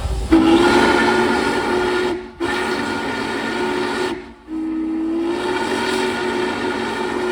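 N&W 611 steam locomotive whistle blowing a chord in three long blasts, the third starting about four and a half seconds in and still sounding at the end, a signal just before the train starts out.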